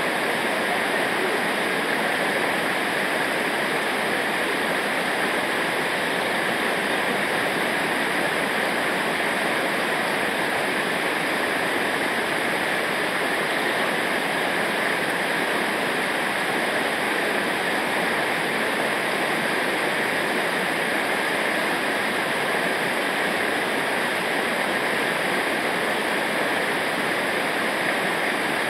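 River water rushing over rocks in rapids, a steady, unbroken rush.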